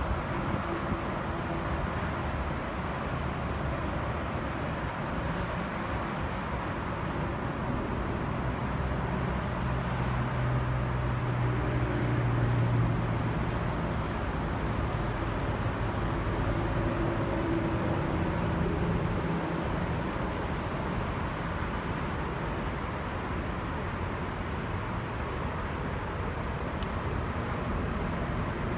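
Steady vehicle rumble with a low engine hum that swells for a few seconds about ten seconds in, then settles back.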